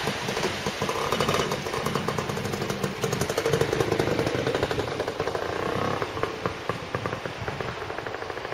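A vehicle running with a steady, rapid clatter.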